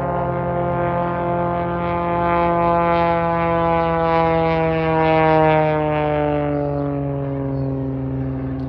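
An aircraft flying past: a droning engine note with many overtones, loudest about five seconds in, its pitch sliding down as it passes by.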